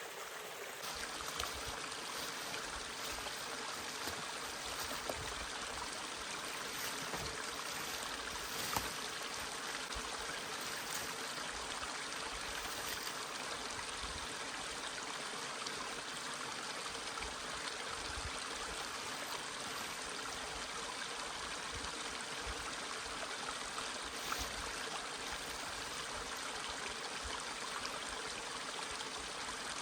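Mountain stream flowing steadily over stones, with a couple of faint clicks.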